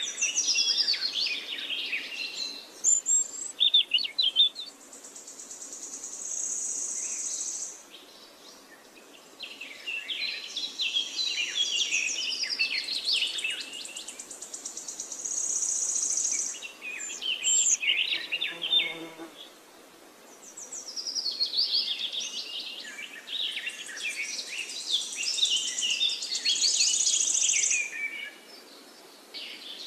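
Birdsong: rapid chirping and trilling phrases that repeat every few seconds, alternating with a high, steady buzzing trill lasting a couple of seconds at a time.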